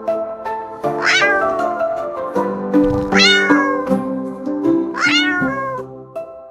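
A cat meowing three times, about two seconds apart, each call falling in pitch, over background music.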